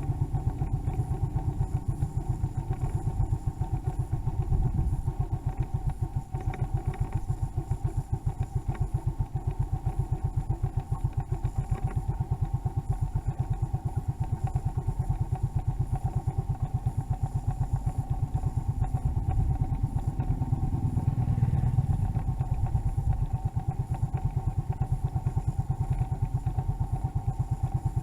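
Motorcycle engine running steadily, a fast even beat of engine pulses with a steady whine above it, swelling slightly about three quarters of the way through.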